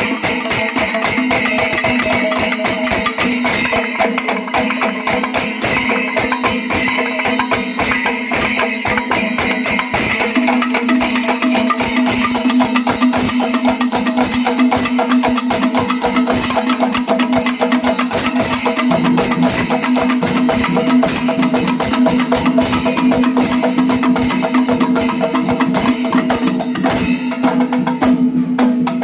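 Kerala temple percussion ensemble (melam) playing: fast, dense drumming and clashing cymbals over a held, steady wind-instrument tone.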